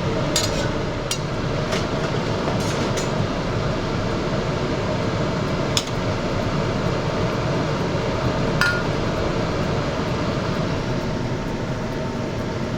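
Kitchen utensils clinking against cookware several times, one clink about two-thirds through ringing briefly, over a steady rushing noise.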